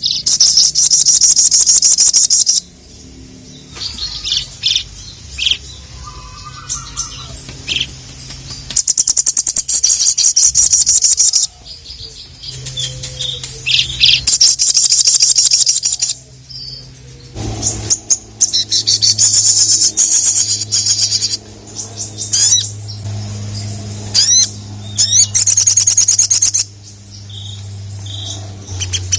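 Sogon (sogok ontong) bird singing in repeated loud bouts of rapid, high trilling, each a few seconds long with short pauses and softer chips between, over a faint low hum.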